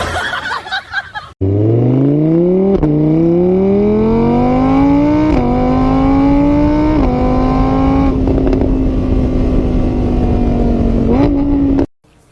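A vehicle engine accelerating through the gears: its pitch climbs, drops back at each of three gear changes, then holds steady before cutting off suddenly near the end. A brief jumble of noise comes before it.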